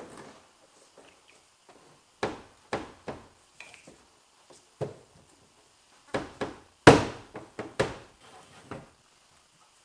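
Irregular knocks, about ten in all, as the rear spoiler is tapped to seat a retaining clip fully into its mounting hole; the loudest knock comes about seven seconds in.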